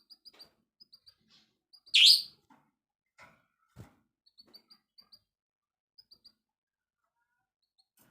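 Songbird giving short, high chirps in quick little runs, with one loud, harsh call about two seconds in. A couple of soft knocks follow.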